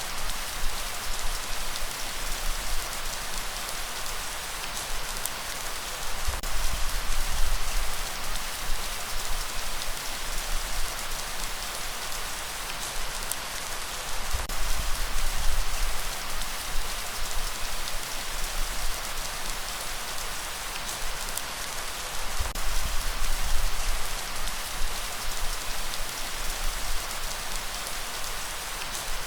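Steady rain falling, a dense even hiss of drops with scattered sharper drop ticks. A low rumble swells and fades every several seconds underneath.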